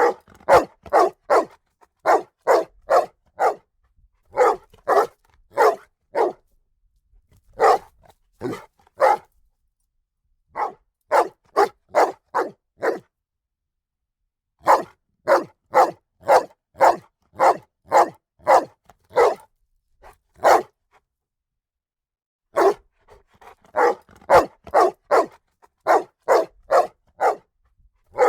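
A dog barking repeatedly in runs of quick barks, about three a second, with short pauses between the runs.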